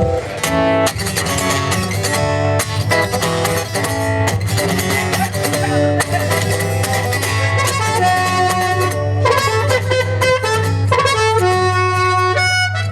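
Acoustic guitar playing an instrumental passage of quick plucked notes.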